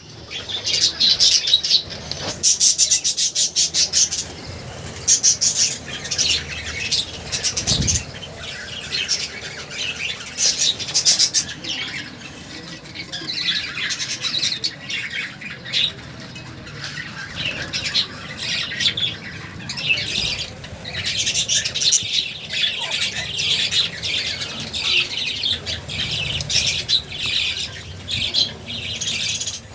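Pet budgerigars chirping and chattering continuously in rapid, overlapping bursts, with shrill squawks among the calls.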